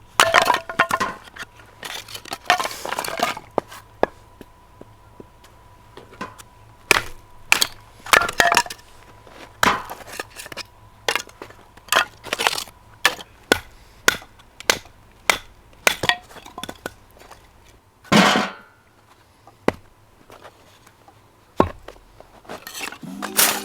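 Firewood being chopped and split: a series of sharp knocks and cracks at irregular intervals, a few drawn out into a longer splintering crack as the wood gives way.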